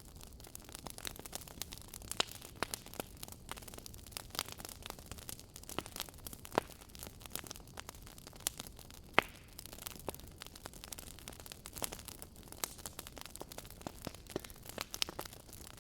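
Wood fire crackling in a fireplace: irregular sharp pops and snaps over a soft steady hiss, the loudest pop about nine seconds in.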